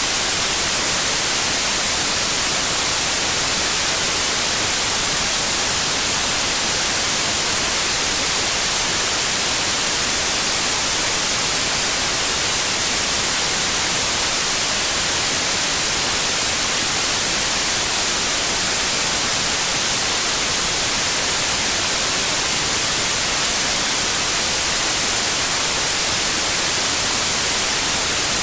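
Steady white noise: an even, unbroken hiss, brightest in the treble, with no changes in level.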